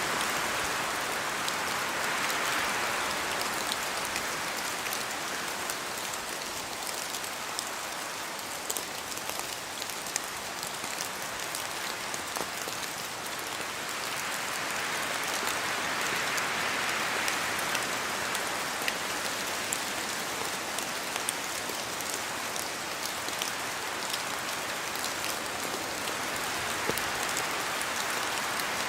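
Rain falling in a spruce forest: a steady wash of rain with many individual drops ticking, while wind through the trees swells and eases slowly a few times.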